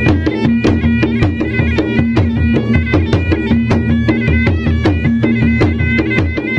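Traditional Maros gendang drums beaten fast and continuously, several strokes a second, with a high melody stepping over a steady drone.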